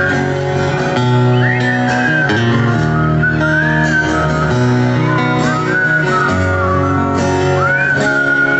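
Guitar music: a bending, sliding lead melody over held bass notes that change every second or so.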